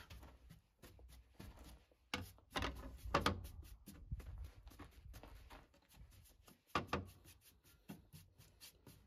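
Wooden objects being handled: irregular light knocks, clicks and rubbing, with a few sharper knocks a little over two seconds in, around three seconds and near seven seconds.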